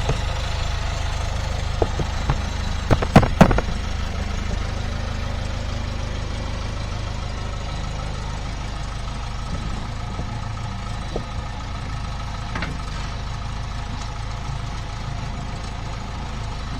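Engine running steadily at idle, with a few sharp metallic clanks about three seconds in.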